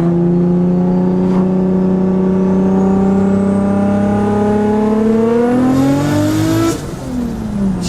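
Nissan RB25 turbocharged inline-six in a 240SX pulling hard under full throttle, heard from inside the cabin: the revs climb steadily for several seconds with a high whistle rising alongside, then the throttle comes off suddenly near the end and the revs fall away.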